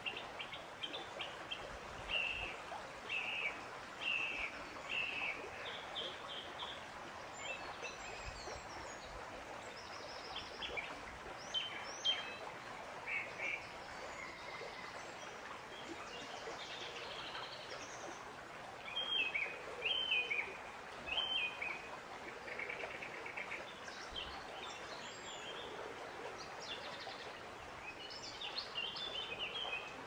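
Several birds chirping and calling in short repeated notes, over a steady natural background hiss.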